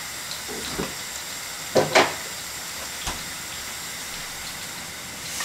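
Corn fritters frying in hot oil in a frying pan, a steady sizzle. A couple of sharp knocks sound about two seconds in.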